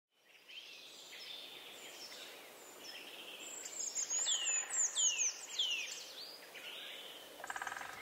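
Several birds singing and calling together, with a run of quick down-slurred whistles in the middle as the loudest part and a short fast trill near the end.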